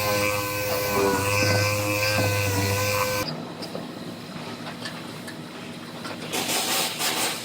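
A power tool runs with a steady whine, then stops abruptly about three seconds in. Fainter shop noise follows, with a short louder hiss near the end.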